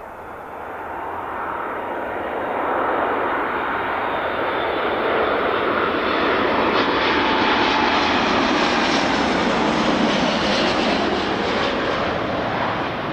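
An airliner's engines passing close by. The noise builds over the first few seconds, is loudest a little past halfway, and eases off near the end.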